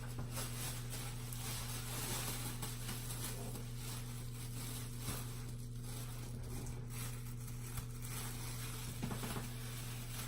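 Steady low electrical hum with faint rustling and handling noise, as hands work a cap over hair thick with a hair mask.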